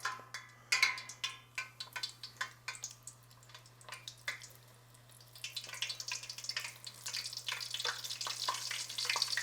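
Battered teal duck breast strips frying in hot oil. Scattered pops and crackles come first, then from about halfway a steady sizzle rises and keeps building.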